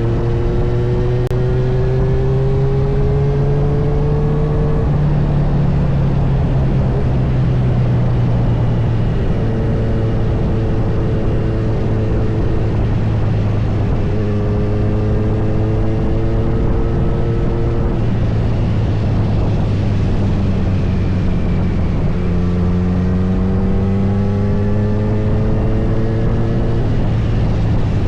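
Kawasaki Z900's inline-four engine running under way, its pitch rising as it accelerates in the first few seconds and again near the end, and holding steady between.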